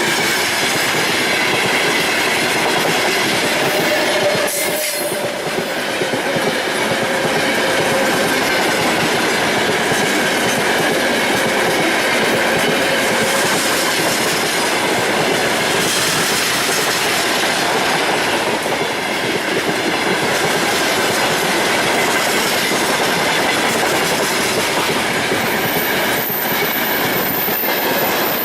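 Freight train hauled by a VL10 DC electric locomotive rolling steadily past, its wagon wheels clacking over the rail joints with a thin squeal of wheels on rail.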